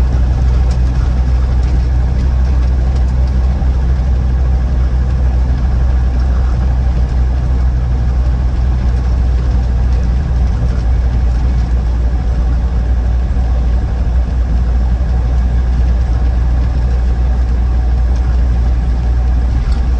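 Land Rover Defender 90 TD5's five-cylinder turbodiesel heard from inside the cabin while cruising at a steady speed: a steady low drone with road noise, with no change in pitch or load.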